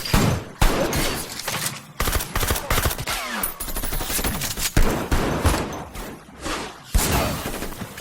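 Gunfire in a film action scene: many sharp shots in quick bursts, with short pauses between.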